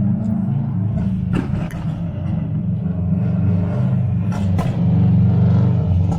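Truck engine run hard at high revs, a loud, deep rumble that comes on abruptly and holds steady.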